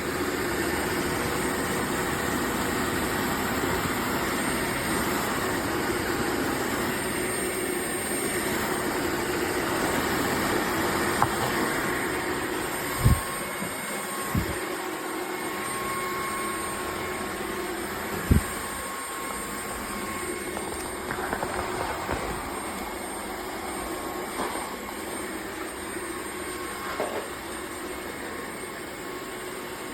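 Dreame H12 Pro cordless wet-dry vacuum mop running in auto mode, a steady motor hum and hiss with a constant whine. It drops slightly in level about halfway through, and there are three short knocks around the middle.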